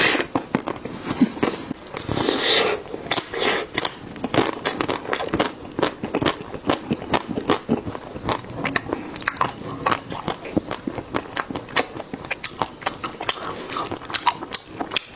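Close-miked eating: biting and chewing with dense wet clicks and crunches, and a longer crunchy bite about two seconds in.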